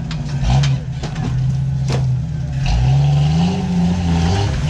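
Jeep Cherokee XJ engine revving and easing off as the lifted Jeep crawls over rocks; the pitch climbs about halfway through, holds, and drops near the end. A single sharp knock comes about two seconds in.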